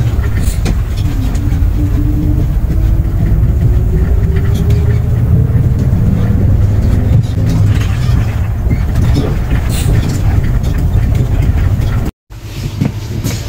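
Inside a moving transit vehicle: a steady low running rumble, with a faint whine that rises slowly in pitch over several seconds as it picks up speed. The sound cuts out briefly near the end.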